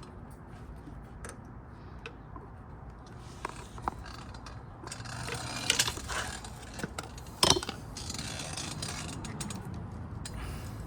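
Screwdriver prying a thick rubber intake boot over a motorcycle carburetor: scraping and scattered clicks of metal on rubber and metal, busiest in the second half, with one sharp loud click about seven and a half seconds in.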